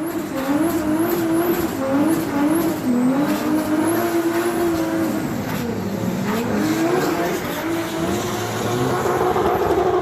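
LS V8 with a Stage 4 truck cam running hard, its pitch rising and falling as the revs change, with a drop and a climb back up about six seconds in.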